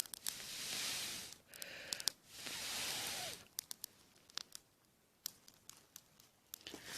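Person blowing on glowing campfire embers to rekindle them: two long breaths of rushing air, each about a second, followed by scattered faint clicks. The embers have not caught yet.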